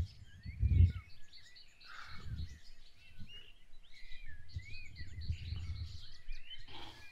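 Birds chirping in short, repeated calls, over a low rumble that comes and goes.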